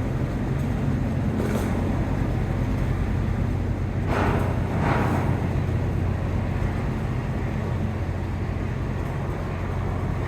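Ship's engines and machinery running with a steady low hum under a wash of wind and water noise; two short rushes of noise come about four and five seconds in.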